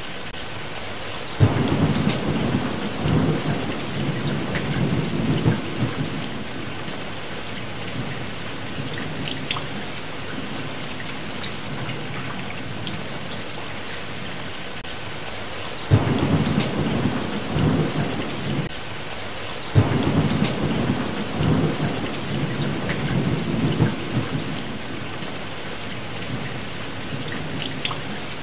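Steady rain with three peals of thunder: the first a few seconds long near the start, then two more in the second half, each beginning with a sudden crack and rolling off over several seconds.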